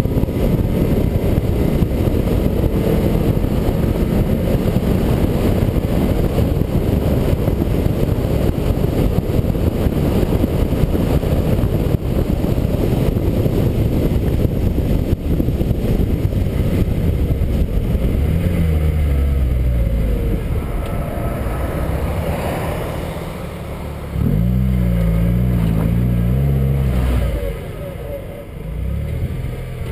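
Ford Escort RS 2000's two-litre four-cylinder engine pulling the car along at road speed, heard through heavy wind rumble on a camera mounted at the front of the bonnet. In the last third the wind noise thins and the engine note comes through more clearly, easing off twice near the end as the car slows.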